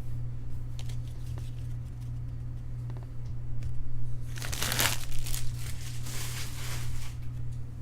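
A trading-card pack wrapper crinkling loudly about four seconds in and again a couple of seconds later, with light clicks of cards being handled before it. A steady low hum runs underneath.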